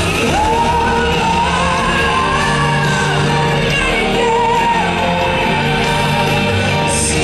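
A woman's lead vocal singing a pop ballad live, holding long notes that slide and waver, over a band backing.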